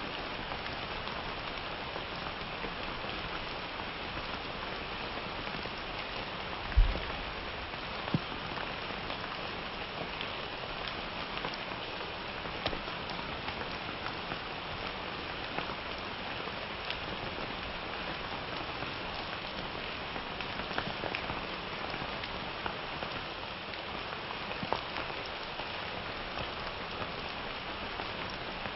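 Steady summer rain, with many individual drops ticking close by on a hard surface. A single short low thump sounds about seven seconds in, and a sharper click follows a second later.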